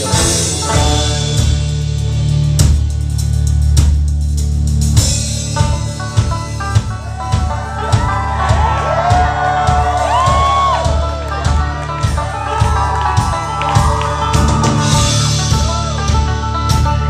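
Live folk-rock band playing an instrumental passage, with regular drum beats under steady bass and strummed guitars, and bending, held melodic notes in the middle.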